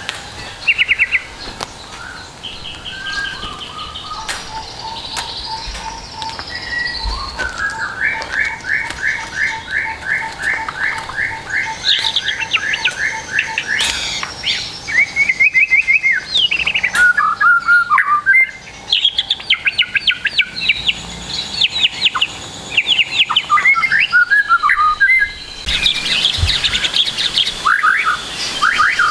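White-rumped shama song used as a tutoring recording for young birds. It is a fast, unbroken run of varied phrases: rapid repeated trills, quick falling whistles and chatter, packed with imitations of other birds' songs.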